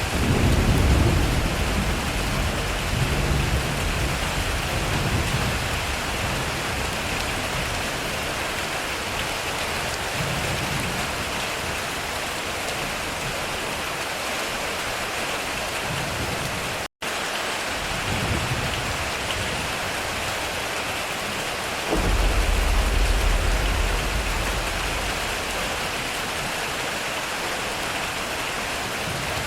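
Heavy rain falling steadily, with rolling thunder rumbling in the first few seconds and a sudden deep thunderclap a little past two-thirds of the way through that rumbles away over a few seconds. The sound cuts out for an instant a little past halfway.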